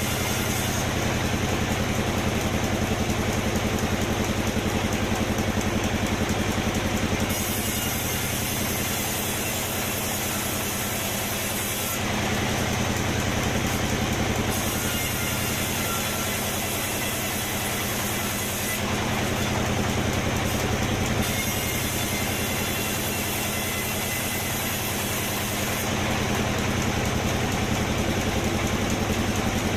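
Sawmill machinery running with a steady engine drone, its level dropping slightly and rising again a few times.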